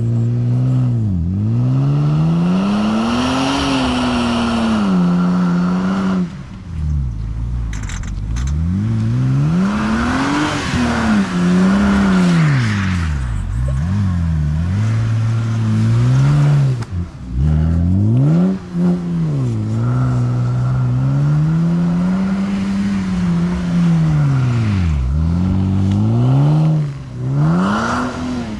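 BMW 128i's straight-six engine revved hard again and again, the revs climbing and dropping many times, as the rear wheels spin in snow during burnouts and slides.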